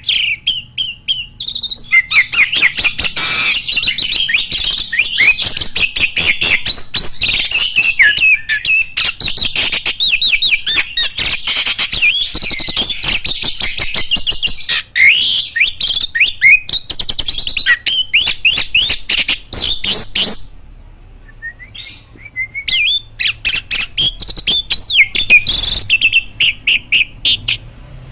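Captive starlings singing a dense run of rapid chirps and whistled glides. The song breaks off for a couple of seconds about three-quarters of the way through, then starts again.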